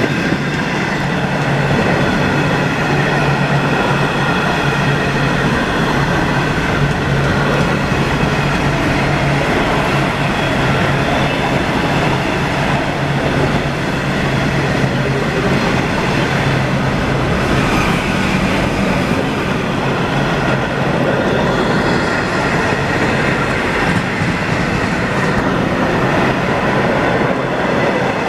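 Freight train hauled by a Class 59 diesel locomotive passing through the station at speed, a loud steady rumble of its wagons' wheels on the rails.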